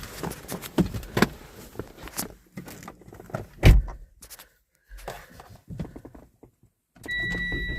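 Clicks and knocks of handling around a car with a jump starter clamped to its dead battery, with one loud knock about halfway through. Near the end the car comes back to life: a steady high-pitched electronic warning tone comes on together with a low steady hum.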